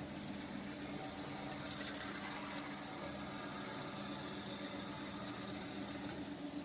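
Industrial machine running steadily, with an even motor hum and a light hiss.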